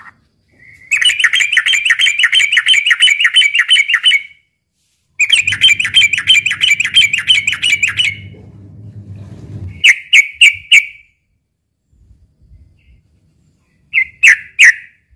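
Yellow-vented bulbul calling: two long runs of rapid, bubbly chattering notes, then a quick series of four loud sharp notes and, near the end, three more.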